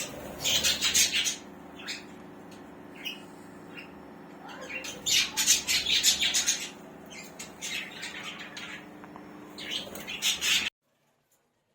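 Budgerigars chattering and squawking in several bursts of rapid, high chirps, over a steady low hum. The sound cuts off abruptly near the end.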